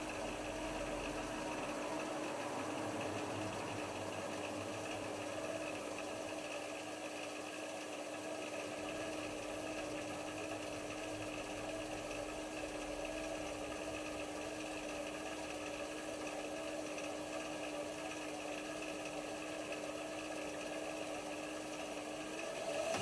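Hotpoint HF8B593 washing machine running with a steady hum during the rinse-and-spin stage. Near the end the hum rises in pitch and gets louder as the machine speeds up.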